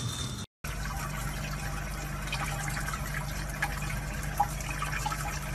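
Tap water running steadily from a faucet onto a wet kitten in a basin. It starts after a brief dropout about half a second in.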